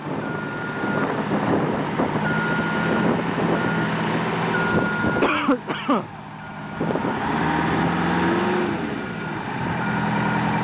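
Detroit Diesel 8V71 two-stroke V8 of a 1977 American LaFrance fire truck working under load as the stuck truck is rocked to free it from a mud rut, its revs rising and falling about three-quarters of the way through. A reversing alarm beeps repeatedly.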